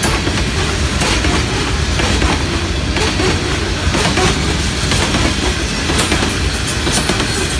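Empty coal cars of a long freight train rolling past: a steady rumble of steel wheels on rail, with repeated clicks as the wheels cross bolted rail joints.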